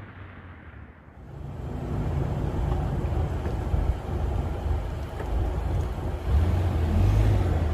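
Exhaust of a Chevy Cruze's 1.4 L turbo four-cylinder through MagnaFlow Street Series mufflers, with the stock mufflers and second cat deleted: a low exhaust drone that builds from about a second in and gets louder again near the end.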